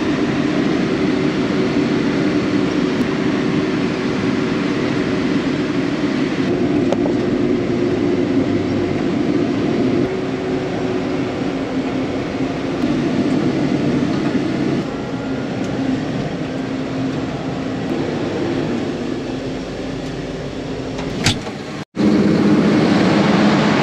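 Steady engine and road noise of a vehicle being driven. Near the end it cuts out for an instant and gives way to a louder steady hum.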